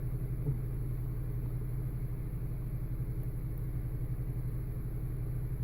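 Car engine idling steadily, a low even hum with a fast regular pulse.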